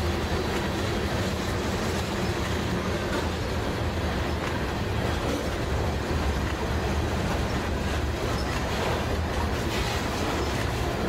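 Freight train of covered hopper cars rolling past, a steady noise of steel wheels running on the rails.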